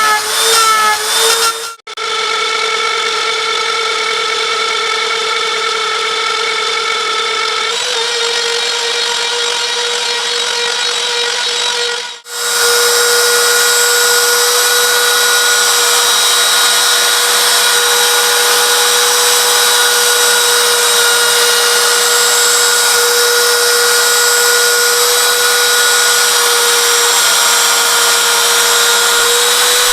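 CNC router spindle whining at a steady high pitch while an end mill cuts 6082 aluminium, the cut adding a harsh hiss. The sound breaks off abruptly twice, about two and twelve seconds in, and the section after the second break is louder.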